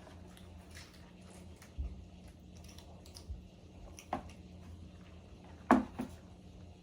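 Quiet eating of fried chicken: faint chewing and small clicks of handling food, with two sharp knocks close together near the end, the first the loudest.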